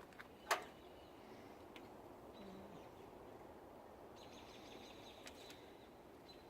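Faint steady outdoor background noise in a snowfall, with one sharp click about half a second in. Faint high chirps and a quick high trill come past the middle.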